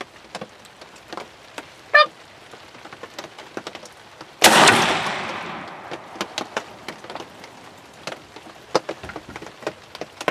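Rain pattering steadily on a ground blind, with a short pitched chirp about two seconds in. Midway, a single loud shotgun blast on a turkey, dying away over a second or so.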